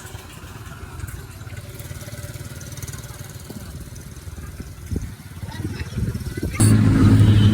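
A motor vehicle engine rumbling low for most of the stretch, then a louder, steady engine hum that starts suddenly near the end.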